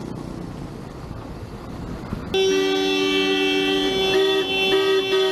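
Vehicle horns honking in a long, continuous blare that starts abruptly about two seconds in, with a second horn sounding on and off over it; before that, low traffic noise.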